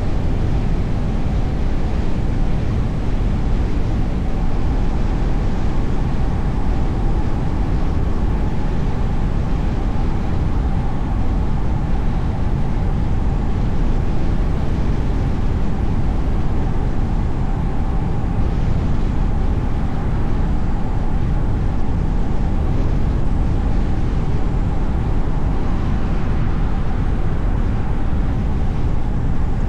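Steady road and traffic noise of a car driving through city streets: a constant low rumble at an even level, with no sudden sounds.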